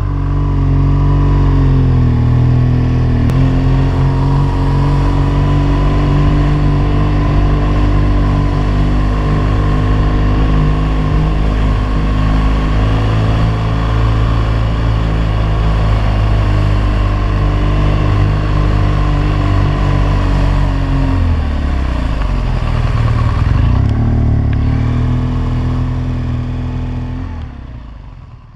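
Motorcycle engine running steadily under way at a constant pitch; its revs dip and then pick up again about three-quarters of the way through, and the sound fades out near the end.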